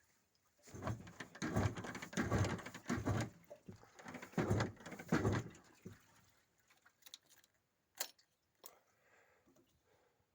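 IZh Jupiter two-stroke twin engine being cranked over: a run of uneven chuffs for about five seconds that does not catch. This is followed by two sharp clicks near the end.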